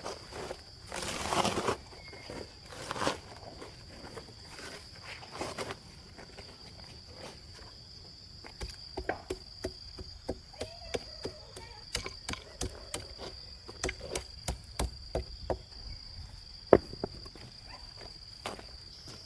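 Steady high insect drone, with a few scraping sounds in the first seconds and then a run of short sharp clicks and knocks from about eight seconds in, one of them louder near the end.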